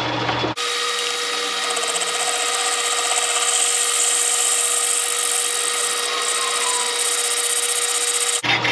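Metal lathe running with a boring bar taking a light spring pass in a worn mower spindle housing's bore: a steady, noisy cutting sound with a constant tone. It starts suddenly about half a second in and cuts off just before the end.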